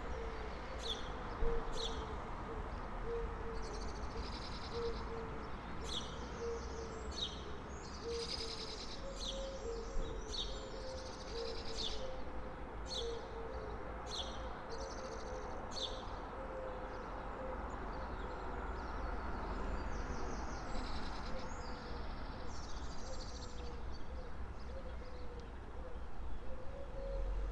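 Birds calling: a low hooting note repeated steadily, about once or twice a second, under short high chirps and trills. A low steady background rumble runs beneath.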